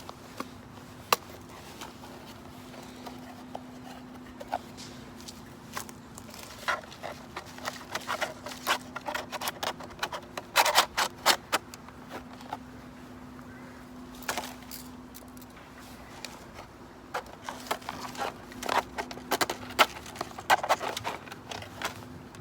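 Two clusters of light clicks and knocks, about seven and about seventeen seconds in, over a steady low hum.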